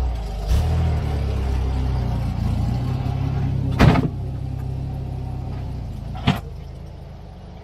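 David Brown 30 tractor engine running, its pitch shifting with load, with two loud clanks about four and six seconds in; the engine quietens toward the end.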